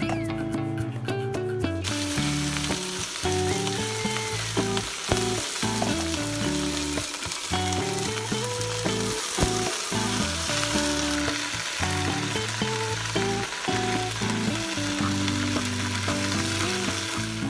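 Food frying in a pan with a steady sizzle that starts about two seconds in, over background music.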